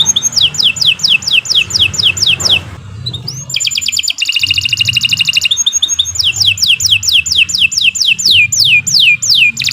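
Domestic canary singing a long song: fast trills alternating with series of quick whistled notes that each sweep down in pitch. There is a brief pause about three seconds in.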